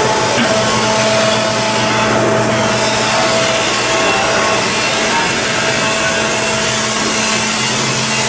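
Loud, steady machinery noise with a low hum and a few steady tones under it.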